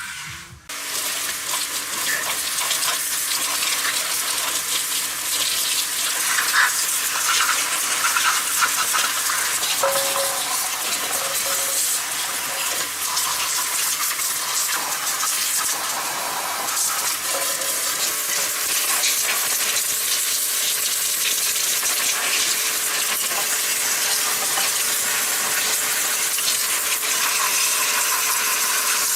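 A steady, loud spraying hiss that starts suddenly about a second in and keeps on, with scattered small clicks.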